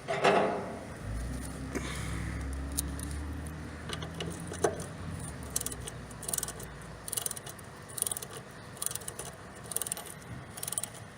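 A ratcheting hand tool clicking in short bursts, roughly once a second in the second half, after a knock at the start. A low hum runs underneath for the first several seconds and stops about seven seconds in.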